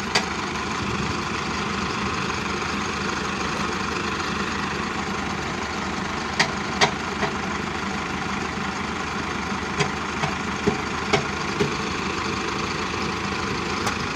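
Tractor diesel engine running steadily, with a few short sharp clicks over it, mostly in the second half.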